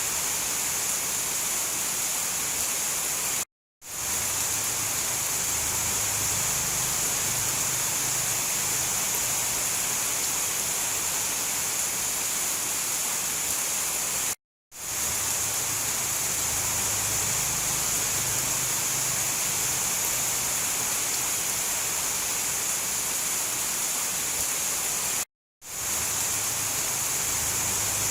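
Steady heavy rain, an even hiss with most of its energy high up. Three times it cuts out to silence for a moment and then fades back in, where the recording loops.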